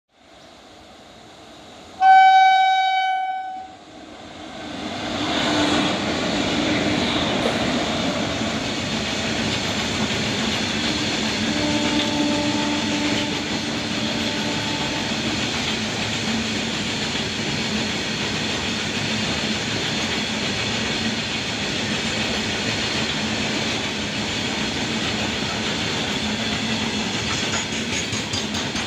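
Horn of a WAG-5 electric freight locomotive sounding one loud blast of under two seconds. Then its long goods train of covered open wagons comes up and runs steadily past close by, wheels and wagons rumbling, with a fainter tone heard briefly around the middle.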